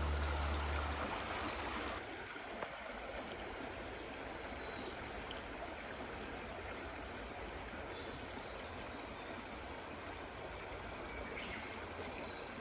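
Steady rush of flowing water, like a stream running.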